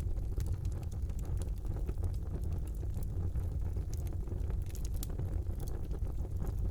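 Wood fire burning in a fireplace: a steady low rumble of flames with scattered sharp crackles and pops, a cluster of them about four to five seconds in.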